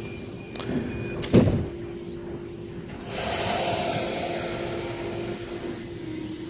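Endeavour diesel railcar standing at the platform with a steady hum, two sharp knocks about a second in, then a loud hiss of compressed air from about three seconds that slowly fades, typical of the train's air brakes releasing just before it pulls away.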